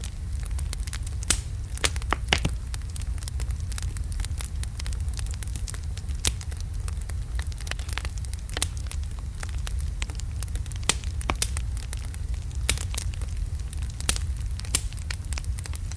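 Wood fire of large burning logs crackling, with sharp irregular pops and snaps over a steady low rumble of the flames.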